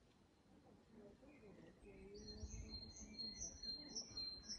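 A small songbird chirping faintly, a run of short high notes about two to three a second, beginning about two seconds in.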